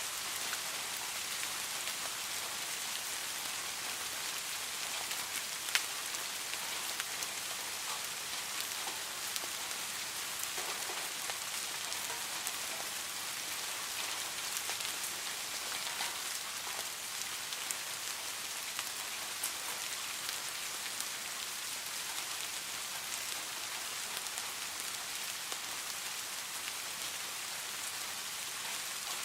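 Steady rain falling, an even hiss with scattered individual drops ticking through it, one sharper tick about six seconds in.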